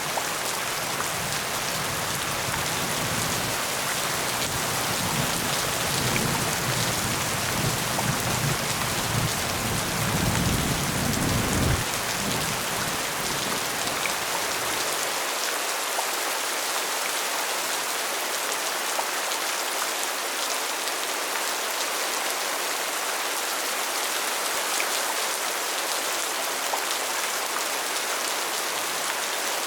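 Steady, heavy rainfall hissing evenly. For the first half a low rumble runs underneath, swelling before it cuts off suddenly about halfway through.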